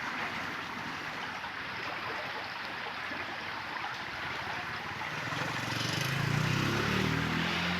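Flood-swollen river water rushing steadily. About five seconds in, a low wavering hum joins it.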